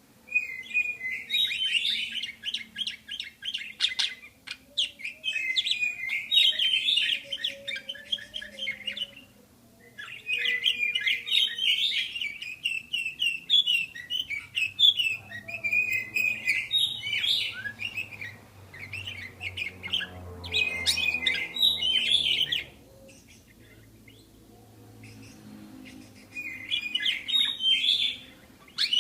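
Budgerigars chirping and warbling in fast, busy chatter, in runs of several seconds with a short pause about nine seconds in and a longer one near the end.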